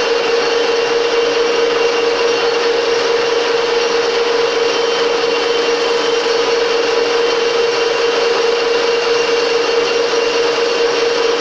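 Metal lathe running steadily, its tool taking a turning pass to bring the part's diameter down: a strong steady hum-tone over an even hiss.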